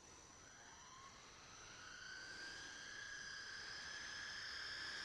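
Electric RC speed-run car's motor and drivetrain whining under acceleration. The pitch climbs over the first couple of seconds, then holds high and steady as the sound grows louder.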